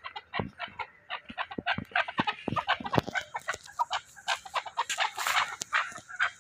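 A flock of fowl clucking, many short rapid calls overlapping in a dense chatter, with a brief rustle about five seconds in.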